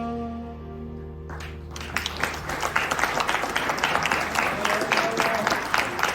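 The final held chord of the song fades out, and about a second and a half in an audience starts applauding, the clapping quickly building and carrying on.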